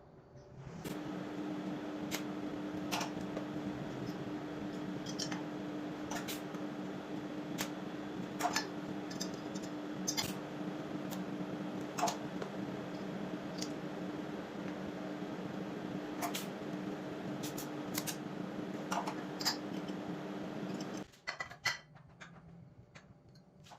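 A machine running with a steady hum and sharp clicks every second or two. It stops abruptly near the end.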